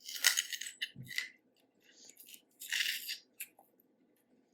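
Eating and handling a boiled snow crab leg: several short, hissy bursts of shell cracking, tearing and mouth noises, one with a low thud about a second in.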